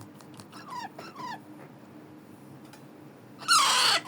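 Alexandrine parakeet chicks begging while being hand-fed: two short chirps falling in pitch about a second in, then a loud, harsh squawk of about half a second near the end.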